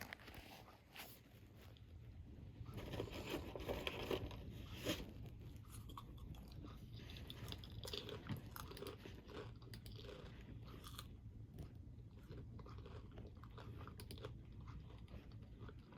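A crunchy snack being bitten and chewed close to the microphone: irregular crunching and crackling, busiest a few seconds in, then steadier chewing.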